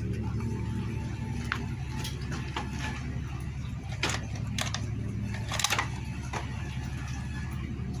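Scattered clicks and knocks of hand tools on motorcycle engine parts during disassembly, loudest about five and a half seconds in, over a steady low hum.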